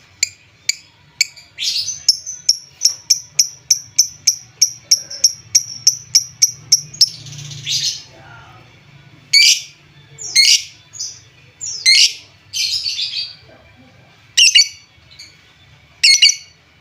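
Lovebird calling: a few sharp high chirps, then a fast, even run of chirps at about three a second for several seconds, then louder, longer harsh calls a second or two apart. It is a lure call (pancingan), played to stir up less active lovebirds.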